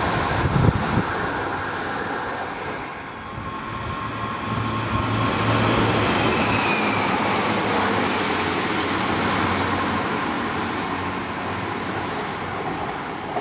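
Chiltern Railways diesel multiple unit passing close at speed: underfloor diesel engine hum with wheels and rails rumbling. A couple of low thuds come about half a second in, and the sound eases off toward the end as the train moves away.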